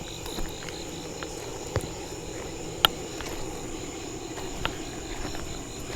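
Night insects, crickets or katydids, holding a steady high-pitched trill, with a few sharp clicks, the loudest about three seconds in.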